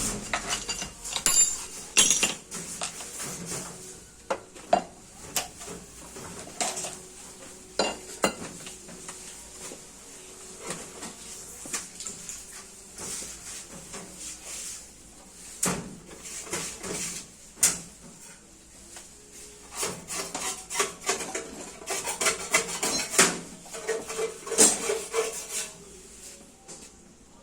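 Metal parts and hand tools clinking, knocking and scraping at irregular intervals during work on a sugarcane press, with a busier run of clinks about three quarters of the way through.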